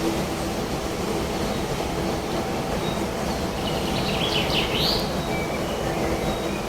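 Steady rushing wind in a forest, with a quick cluster of bird chirps about four and a half seconds in.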